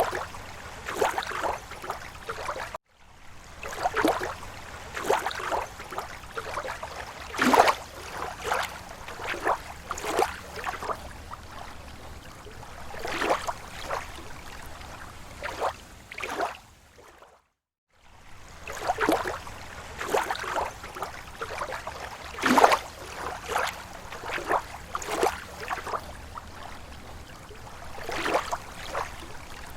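Small waves lapping against a lake shore: irregular short splashes and slaps of water, a few a second at most, over a steady wash. The sound cuts out briefly twice, near 3 seconds and near 18 seconds in.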